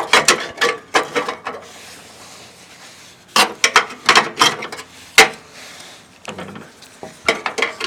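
Metal battery brackets clanking and clicking as they are handled and fitted into a lawn tractor's battery compartment, in bursts of sharp knocks: one right away, another about three and a half seconds in, and a third near the end.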